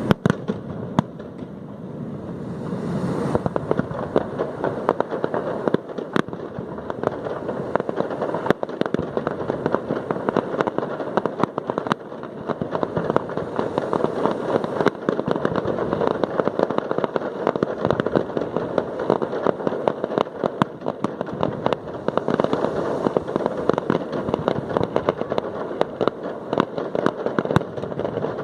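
Aerial fireworks display going off in a dense, rapid stream of cracks and pops, many a second, with sharp bangs near the start.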